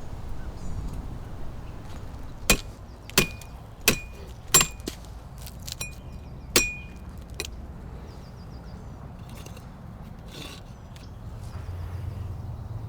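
A series of sharp metal-on-metal strikes, each with a brief ringing tone: four evenly spaced blows a little under a second apart, then two or three more a few seconds later.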